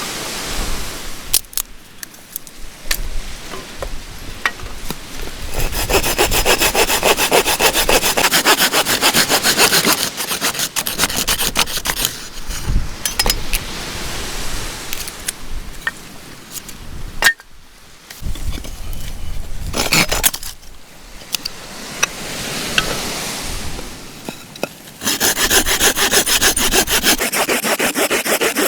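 Hand saw cutting through wood with quick, even strokes, loudest in two spells: one from about six to ten seconds in and another near the end, with lighter, broken sawing between.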